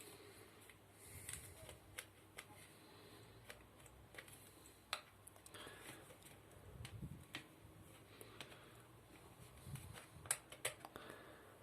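Quiet, scattered clicks and taps of small plastic parts being handled while a blender is taken apart, with a few soft low bumps around the middle.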